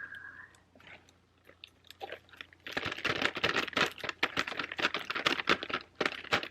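A dense run of rapid small crackles and clicks starts a little under three seconds in.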